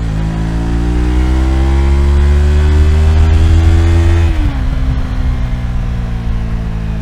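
Yamaha MT-03's parallel-twin engine accelerating on the road, its pitch climbing steadily for about four seconds. The revs then drop sharply and the engine runs on at lower, steadier revs.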